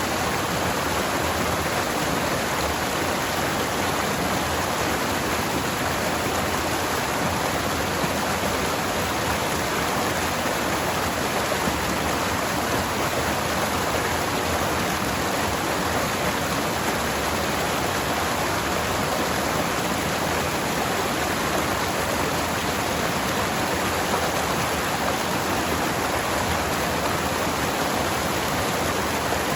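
Forest river water flowing steadily: an even, unbroken rushing.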